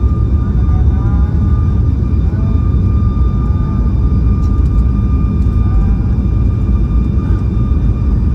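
Boeing 737 MAX 8's CFM LEAP-1B engines at high takeoff thrust, heard from inside the cabin: a loud, steady rumble with a steady high whine over it.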